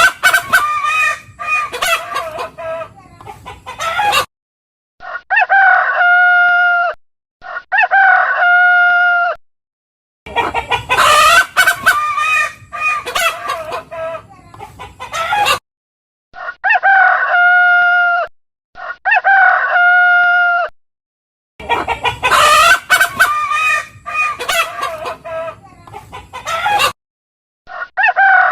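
Chickens clucking and a rooster crowing: a few seconds of loud clucking, then two long crows, the same sequence repeating about three times with short silent gaps.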